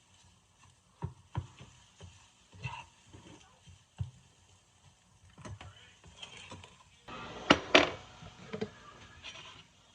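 Kitchen clatter from cooking: a series of light clicks and knocks, then a louder scraping rattle with two sharp knocks about seven seconds in.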